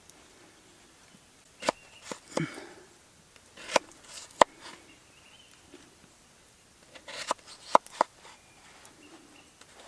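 Knife cutting a raw potato into slices: about eight short, sharp clicks and knocks at an irregular pace, with a few soft rustles between them.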